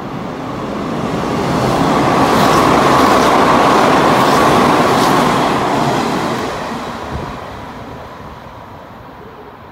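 Hanshin 8000 series electric train passing through the station at speed without stopping. A rush of wheels and running gear swells to its loudest a few seconds in, with a few sharp clacks, then fades as the train pulls away.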